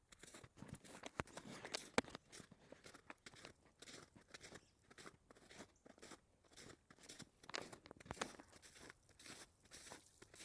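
Footsteps crunching on the ground, an uneven series of crunches about every half second, the sharpest about one and two seconds in.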